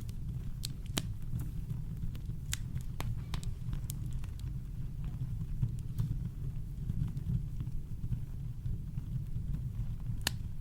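Campfire crackling: scattered sharp pops and snaps, more of them in the first few seconds and again near the end, over a steady deep rumble of brown noise.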